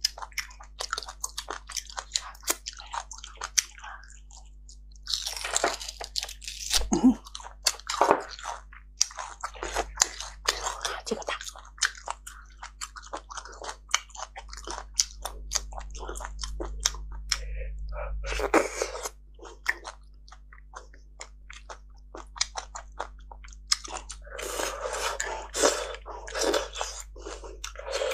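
Close-miked eating of roasted beef bone marrow: chewing and biting with many sharp wet mouth clicks, in denser runs about five seconds in and again near the end.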